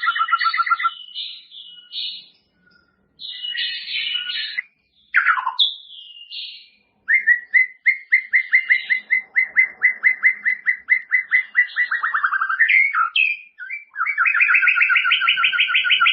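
White-rumped shama singing a varied song: long rapid trills of repeated notes, about nine a second, broken by higher short phrases and a quick downward sweep.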